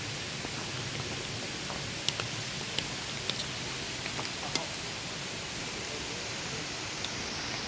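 Steady rush of a waterfall, an even wash of water noise, with a few sharp ticks between about two and four and a half seconds in.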